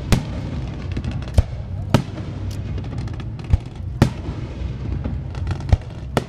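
Aerial fireworks bursting: several sharp bangs at irregular intervals, half a second to a second and a half apart, over a steady background of crowd murmur.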